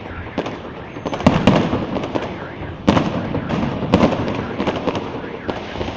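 Aerial fireworks bursting overhead: a run of sharp bangs and crackles, the loudest about a second in, near three seconds and around four seconds.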